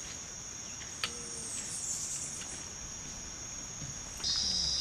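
Steady high-pitched insect trill, with a few short bird chirps over it. Near the end it changes abruptly to a louder, lower-pitched trill.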